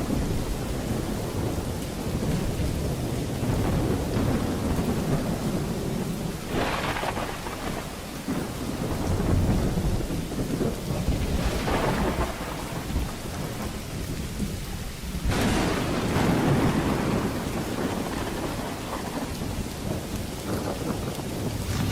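A thunderstorm: rain falling steadily under a continuous low rumble of thunder, with three sudden sharper bursts, about a third, half and two-thirds of the way in.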